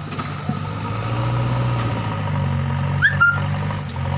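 An engine idling steadily with a low hum, and a brief high chirp about three seconds in.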